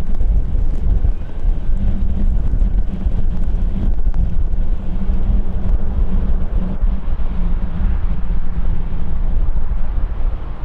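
Loud, steady rumble of a jet airliner's engines going past, with wind buffeting the microphone.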